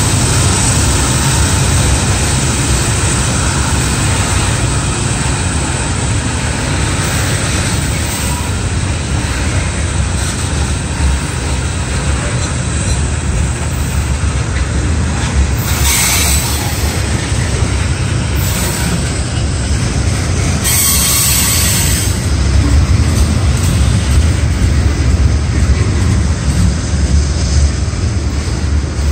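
Herzog ballast train's rock cars rolling past close by: a loud, steady rumble and clatter of steel wheels on rail. There are two brief bursts of high-pitched noise near the middle, and the low rumble grows heavier over the last several seconds.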